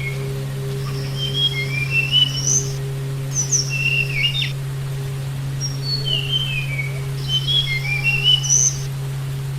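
Tledekan gunung (Sunda robin) singing: two bursts of rapid, mostly falling whistled notes, over a steady low hum.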